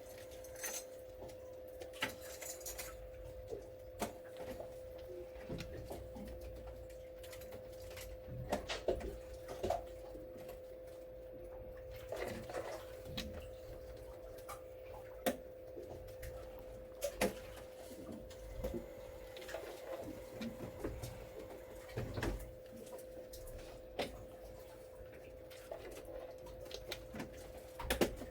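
Scattered small clicks and taps over a steady low hum.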